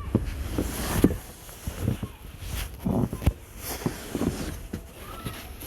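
Footsteps crunching through snow, irregular and about one or two a second, with a low rumble of wind on the microphone.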